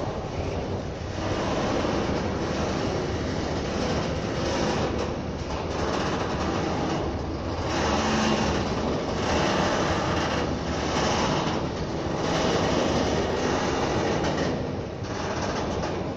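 Freight train of tank wagons rolling past: a steady rumble of steel wheels on rail that swells and eases every couple of seconds as the wagons go by.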